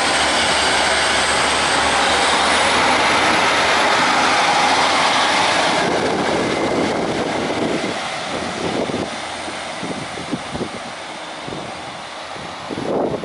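A train passing through the station: a loud, steady rushing noise that fades away after about six seconds, leaving an uneven, gusty rumble.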